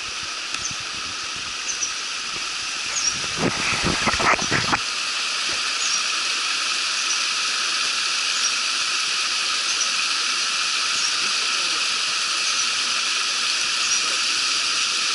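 Steady rushing water of a stream or waterfall, with short high squeaks about once a second over it. A few knocks and rustles come around three to five seconds in.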